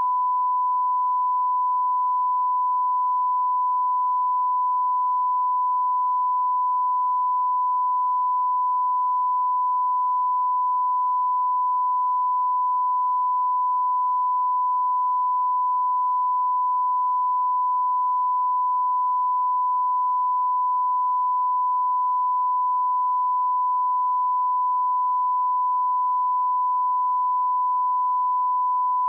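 Continuous electronic beep tone: one pure, unwavering pitch held at a constant level, with no breaks.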